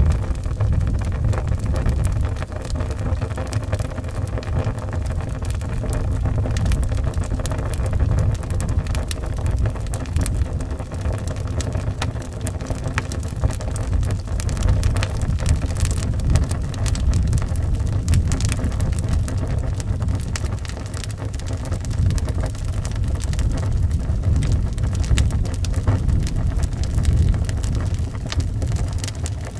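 Wood fire crackling in a fireplace, with many short sharp pops, over a steady low rumble of howling wind.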